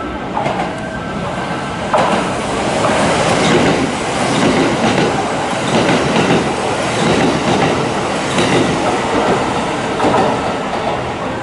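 Kintetsu limited express electric trains running through a station at speed. A loud rush of wheel and rail noise cuts in suddenly about two seconds in, with a clatter of wheels over the rail joints as the cars pass.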